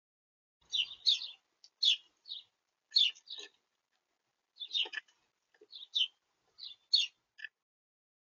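Small birds chirping close to the microphone: about a dozen short, high chirps in quick groups.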